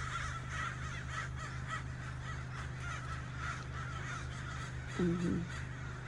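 Corvids (called ravens) calling over and over in short caws, under a steady low hum. A short, louder and lower-pitched sound comes about five seconds in.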